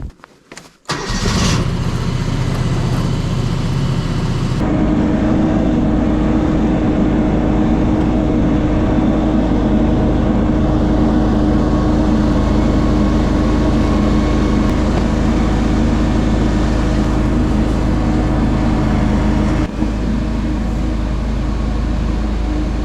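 An engine starts about a second in and then runs steadily, its note changing slightly a few seconds later, with a brief dip near the end.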